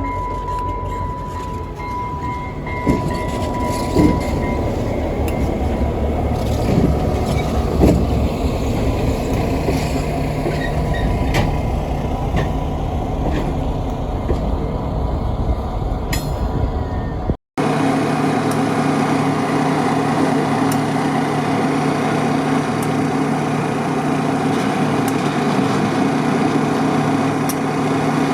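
A diesel locomotive (GMD GP9u) and its train rolling past, a rumbling run with scattered clanks from the wheels and cars. After a cut about two-thirds in, the locomotive's diesel engine runs with a steady, even drone.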